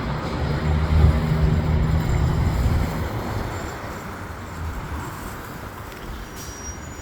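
Diesel engine of a New Flyer Xcelsior XD60 articulated bus running with a low drone that fades away over the first few seconds, as the bus moves off.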